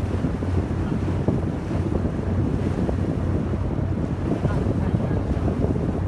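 Wind buffeting the microphone aboard a moving yakatabune houseboat, over a steady low rumble from the boat under way.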